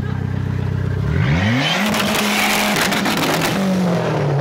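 Dodge Neon SRT-4's turbocharged 2.4-litre four-cylinder idling, then revved sharply about a second in and held against a two-step launch limiter with rapid popping and crackling, before the revs sag back down near the end.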